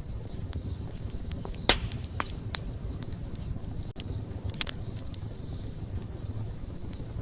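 Wood campfire burning: a steady low rumble of flames with about half a dozen sharp pops and crackles scattered through, the loudest about a second and a half in.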